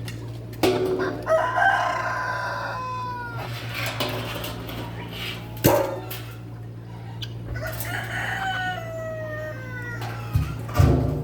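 A rooster crowing twice, each crow a long call that falls away at the end, over a steady low hum.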